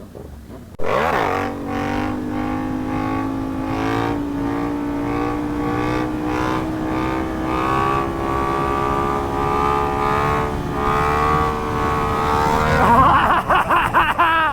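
Sportbike engine opened up hard about a second in and held at high revs, its pitch climbing steadily for about twelve seconds, then rising and falling quickly near the end.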